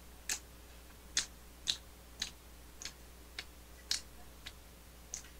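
Faint wet mouth clicks of someone chewing a mini burger with the mouth closed, about two a second and uneven in strength.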